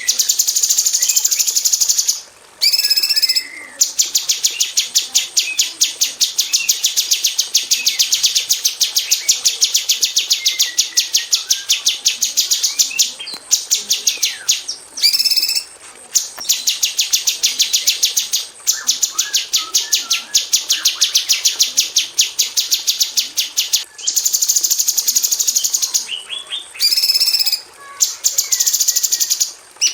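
Female cucak cungkok, a leafbird, singing rapid-fire runs of sharp, evenly spaced high chips that go on for several seconds at a time, broken by short pauses and a few brief, different phrases.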